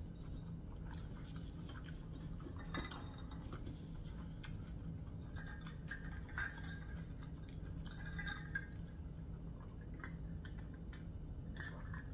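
A person chewing food with the mouth closed: faint, scattered soft clicks every second or two over a low steady hum.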